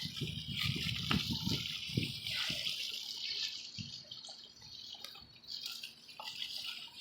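Garden hose spraying water at ordinary pressure through the coil fins of a central air conditioner's outdoor condenser unit, rinsing out soap and dirt, with water splashing and running out of the unit. A steady hiss, with uneven low splattering in the first few seconds.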